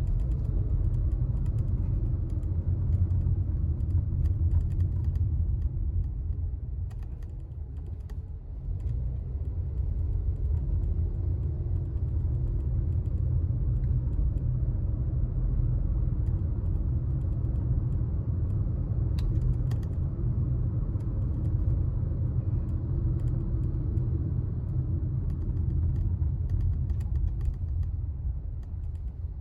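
Car driving on city streets: a steady low rumble of engine and road noise, which eases briefly about eight seconds in, with a few faint clicks scattered through.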